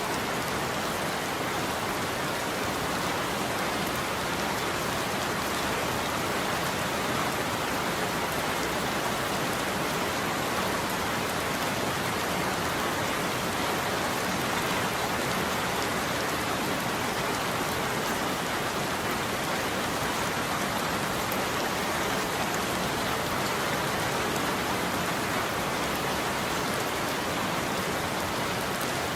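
Steady heavy rain falling on a roof, an even hiss of drops with no thunder.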